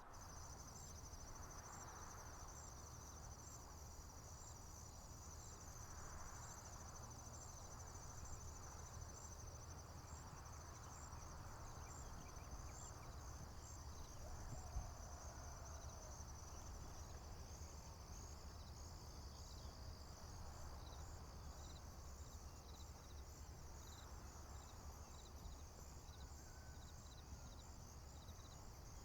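Faint chorus of crickets and other insects: a steady high trill with a pulsing chirp that repeats about twice a second, over a low steady rumble. A single click about halfway through.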